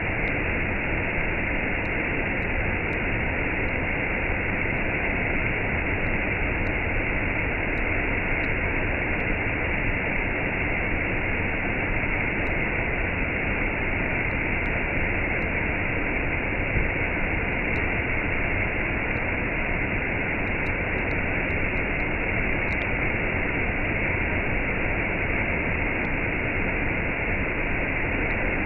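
Waterfall with a cascade: a steady, unchanging rush of falling water.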